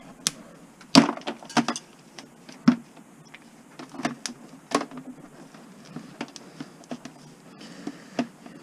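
Irregular sharp clicks, snaps and rattles of plastic Christmas-light bulb sockets being pried and broken off the wire, the plastic cold and brittle. A dozen or so knocks, the loudest about a second in.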